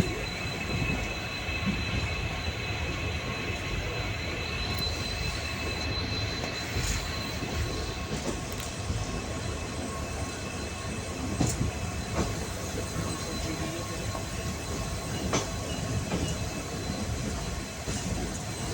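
Express train coaches running at speed over the rails: a steady rumble and hiss of wheels on track, with a thin steady high whine and a few scattered clicks.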